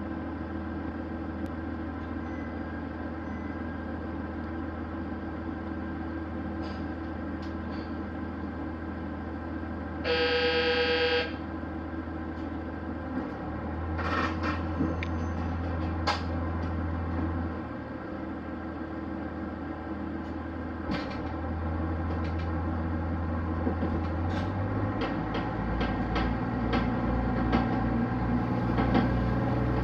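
Train running, heard from on board: a steady low drone with scattered clicks and knocks. About ten seconds in, a horn gives one short toot of about a second at a single pitch. Near the end the drone's low note shifts and grows a little louder.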